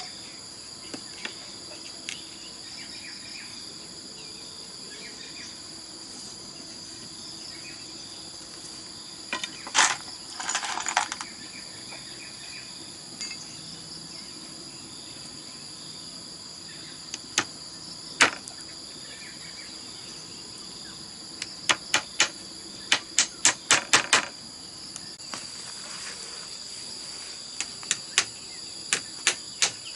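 Sharp knocks of tool work on bamboo, coming in short quick runs of several strikes a second with pauses between. Under them runs a steady, high-pitched drone of insects.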